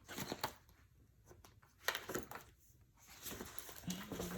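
Faint, scattered light clicks and rustles of small objects being handled, with one sharper tick about two seconds in and a short low hum near the end.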